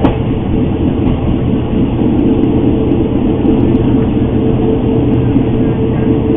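A passenger train running steadily: a constant loud rumble with a steady droning hum.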